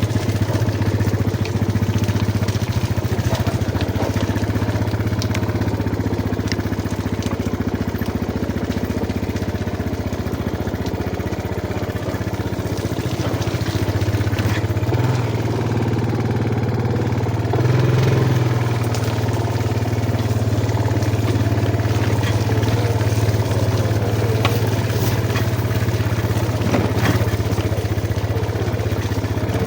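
Yamaha Jupiter MX motorcycle engine running while being ridden. Its note eases off a little about a third of the way in and picks up again, with scattered clicks and rattles over the steady hum.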